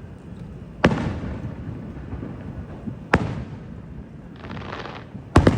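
Aerial fireworks shells bursting: three sharp bangs about two seconds apart, the last a quick double, each followed by a rolling echo. A brief crackle comes just before the last bang.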